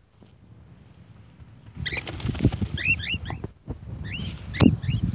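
Small pet bird giving a series of short, high squeaky chirps, starting about two seconds in and coming several times a second in clusters, over low rustling and thumping handling noise.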